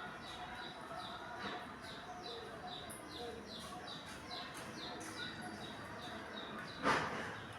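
Bird chirping: short, high, falling chirps repeating about twice a second, with one brief, louder harsh sound near the end.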